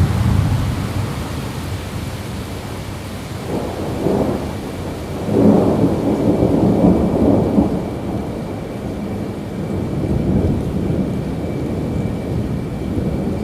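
Rolling thunder over steady rain: a low rumble swells about four seconds in, and a longer, louder roll follows shortly after before fading back into the rain.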